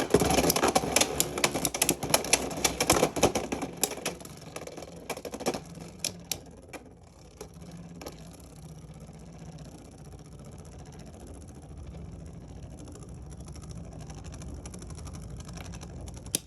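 Beyblade X spinning tops clattering against each other and the plastic stadium walls in rapid, dense hits, which thin out after about four seconds and stop near seven seconds. After that comes a steady, quieter whir of a top still spinning in the stadium.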